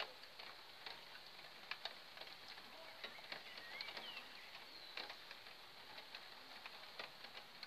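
Faint, scattered raindrops ticking and pattering, with a few short bird chirps now and then.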